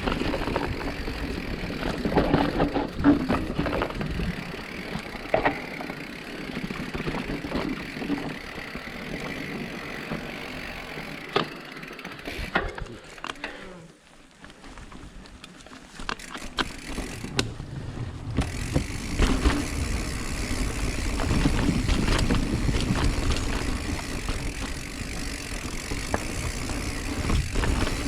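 Mountain bike rolling over rough ground: tyre noise, wind on the microphone and the clatter and rattle of the bike. It drops away for a few seconds about halfway through, then picks up again.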